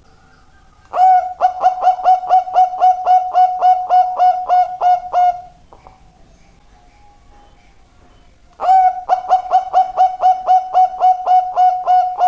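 Zebra dove (perkutut) singing: two bouts of fast, evenly repeated cooing notes, about four a second, each bout lasting about four seconds with a pause between.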